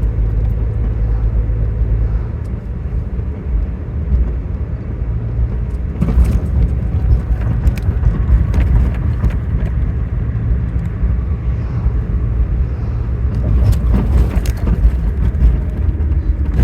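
Road noise inside a moving car: a steady low rumble of engine and tyres, with a few short knocks from bumps in the road.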